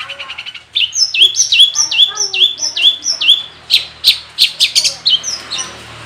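Long-tailed shrike (cendet) singing a varied song of mimicked phrases. It opens with a quick trill, then gives a string of repeated hooked whistles, each dropping then levelling off, and ends in loud, sharp short calls about three a second.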